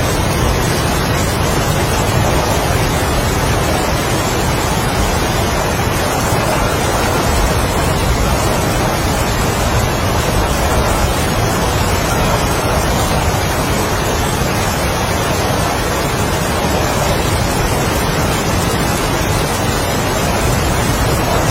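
Strong wind and heavy rain: a steady, dense rush of noise with no breaks or separate drops.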